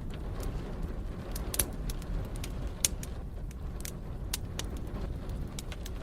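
Wood fire crackling, with irregular sharp pops, two of them louder about one and a half and three seconds in, over a steady low rumble.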